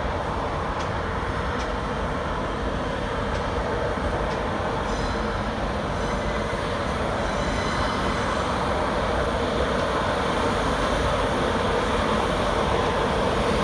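Electric express train pulling slowly out of the platform: a steady rumble of wheels and traction that grows a little louder, with a faint high whine for a few seconds about midway.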